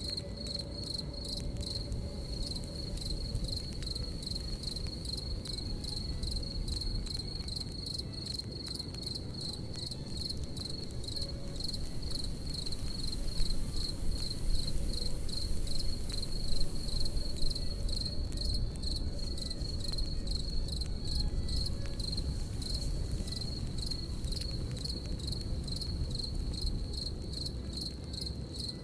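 Crickets chirping in a steady, fast pulsing trill, over a crackling campfire with a low rumble and scattered pops, a few of them louder around the middle.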